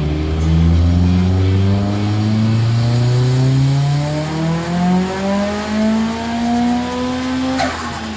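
Nissan Silvia S15 Spec-R's turbocharged SR20DET four-cylinder with a TOMEI turbo and aftermarket titanium exhaust, the revs climbing steadily for about seven and a half seconds. Then the throttle closes with a short sharp burst of noise, and the revs fall.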